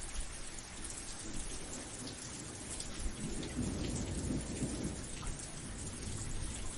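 Steady rain falling, with scattered single drops ticking close by. A low roll of thunder swells about three seconds in and dies away about two seconds later.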